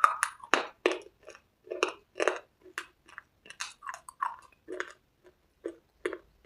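Close-miked chewing of a hard, crunchy cube: a string of crisp crunches, about two a second, irregular in strength.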